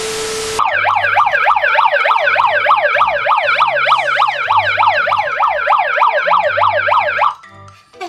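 A handheld megaphone's built-in siren sounding a fast warble, its pitch sweeping up and down about four times a second. It cuts off suddenly about a second before the end. It opens with half a second of TV-static hiss and a steady tone.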